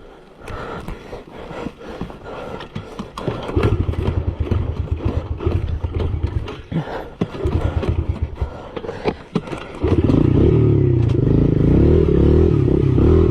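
Clattering and scraping, then about ten seconds in a motorcycle engine starts up and runs loudly, its pitch rising and falling as it revs.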